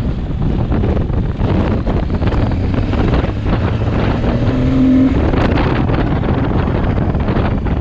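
Adventure motorcycle running off-road, engine noise mixed with wind buffeting the microphone, with a short steady whine about halfway through.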